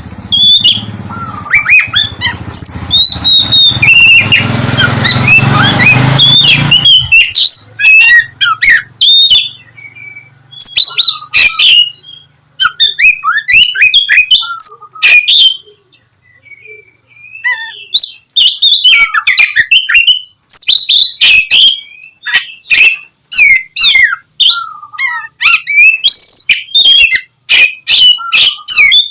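Oriental magpie-robin (kacer) singing loudly in fast, varied phrases of whistles, slurred notes and harsh chattering, with short pauses between bursts. A low rumbling noise runs under the song for about the first seven seconds, then stops.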